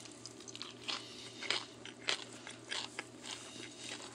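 A person chewing and biting food close to the microphone: a string of irregular small crunches and mouth clicks.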